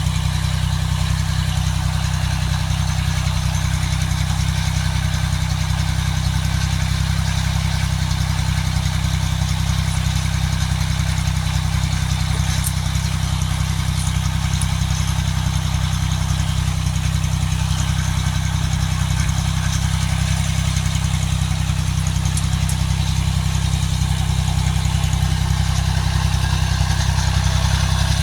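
The 18 HP tractor's engine running steadily for the whole stretch, with a low, even drone that grows slightly louder near the end.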